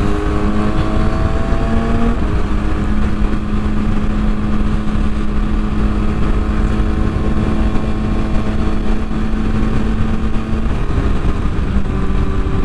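Kawasaki ZX-6R inline-four with a Yoshimura exhaust running under way, heard from the rider's helmet mic through heavy wind noise. The engine note climbs for the first two seconds and then holds steady. It breaks off briefly about eleven seconds in and then picks up again.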